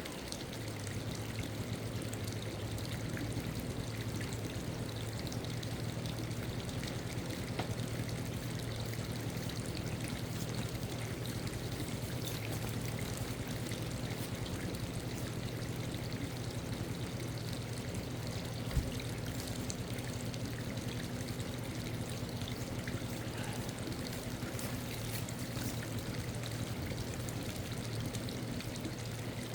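Steady sound of running water, trickling or pouring without a break, over a faint low hum, with one brief knock about two-thirds of the way through.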